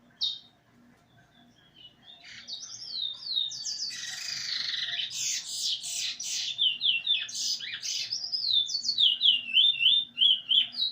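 Songbird singing: a single sharp chirp just after the start, then from about two seconds a busy run of quick chirps and warbles that ends in a fast series of repeated down-slurred notes.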